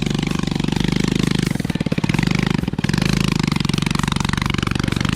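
A motorcycle engine running with a fast, even putter of firing pulses. It eases off briefly about two seconds in, then picks up again.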